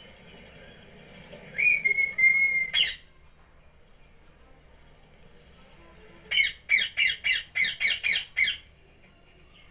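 A short whistle about two seconds in, then a parrot's quick run of about ten squawks lasting roughly two seconds.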